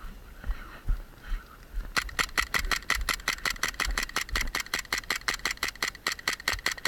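Airsoft gun firing a rapid string of shots, about seven a second for some five seconds, starting about two seconds in and stopping suddenly near the end.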